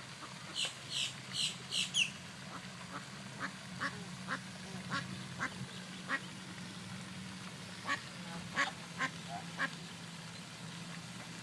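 Ducks calling at the water: a quick run of five high calls about half a second in, then scattered short calls and quacks, over a steady low hum.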